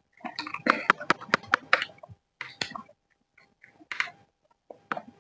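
Mouth sounds of a person eating fried rice: chewing with wet lip smacks and sharp clicks. A dense run comes in the first two seconds, then a few short separate smacks.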